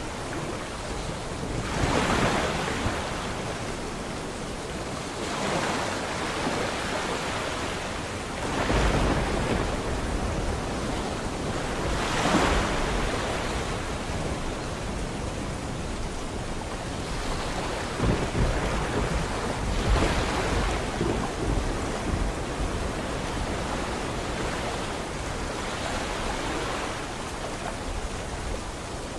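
Sea waves breaking and washing in every few seconds over a steady hiss of rain, with low thunder rumbling twice, about a third of the way in and again past the middle.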